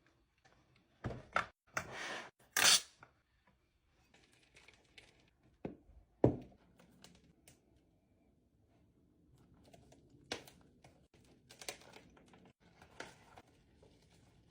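Rustling, tearing and crackling of soil and roots as a bird's nest snake plant clump is pulled apart by hand, with a loud scraping rush near the start, a sharp knock about six seconds in, and softer crackles later.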